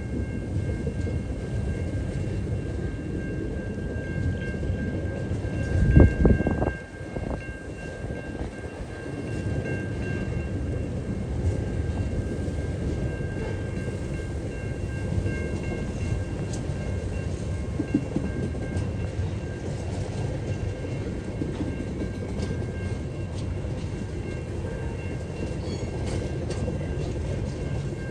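TasRail freight train rolling past on a curve, a steady rumble of wheels and wagons with a thin steady high-pitched squeal from the wheels on the curve. A brief loud low bump about six seconds in.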